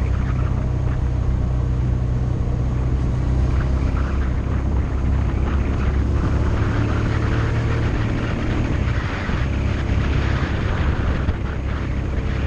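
Motorcycle engine running steadily under way, its low tone shifting a little in pitch, with rushing air noise above it.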